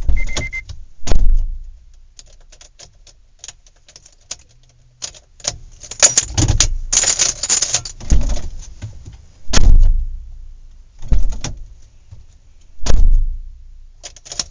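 Handling noises around a horse farm: irregular knocks, clanks and rattles of hardware, with about half a dozen heavy thuds and a short squeak near the start.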